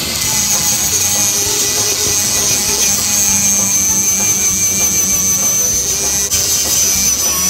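Angle grinder running with an abrasive disc pressed into the bowl of a walnut spoon, grinding the wood: a steady high motor whine over the rasp of the disc on the wood.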